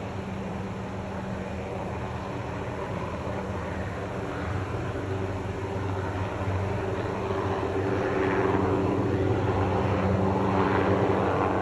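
Helicopter flying an aerial tree-trimming saw: a steady rotor and engine drone that grows louder over the second half, with a rising-and-falling whine swelling twice near the end.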